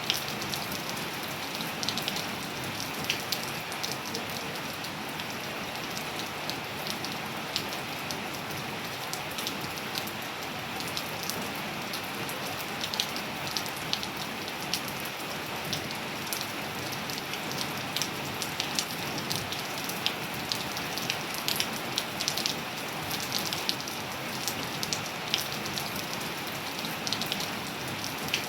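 Steady rain falling on a surface, a dense even hiss dotted with many sharp, irregular drop impacts.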